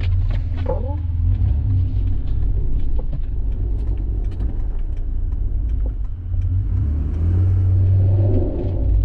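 Car engine running with a steady low rumble that swells louder about seven to eight seconds in.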